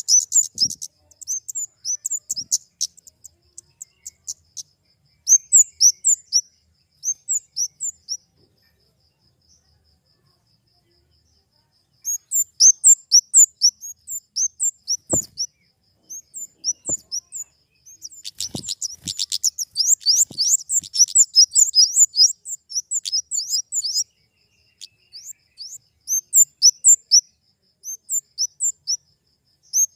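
Flowerpecker (kemade) calling: runs of rapid, very high-pitched, sharp chipping notes in bursts, with a pause of a few seconds about a third of the way in and a dense run a little after the middle.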